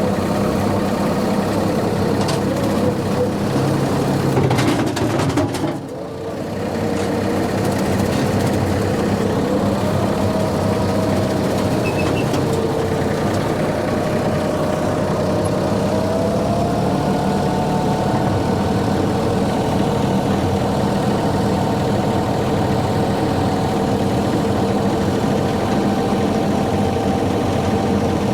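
Tractor engine running steadily while driving a brush hog rotary mower. The level dips briefly about six seconds in, and a whine steps up in pitch twice after that.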